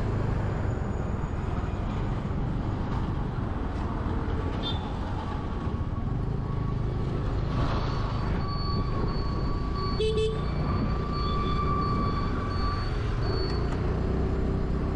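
Motorcycle riding at about 40 km/h: the engine runs and wind rumbles on the outside-mounted GoPro's microphone. From about five seconds in to near the end, a vehicle horn sounds in one long steady tone.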